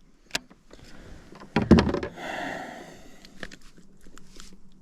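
Handling noise on a fishing kayak: a light click, then a loud knock about a second and a half in, followed by a short rustling hiss and a few small ticks.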